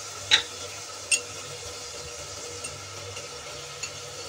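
Tomatoes with turmeric and chilli powder sizzling steadily in hot oil in an open aluminium pressure cooker, with two sharp clicks of the spoon against the pot in the first second.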